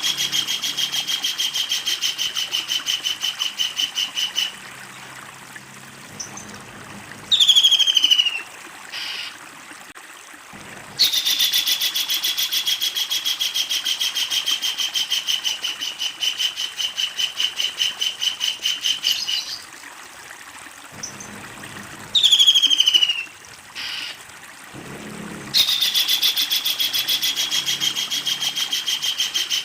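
Kingfisher (tengkek udang) giving long rolling series of rapid repeated calls, each series easing slightly down in pitch, broken twice by a short, sharply falling call.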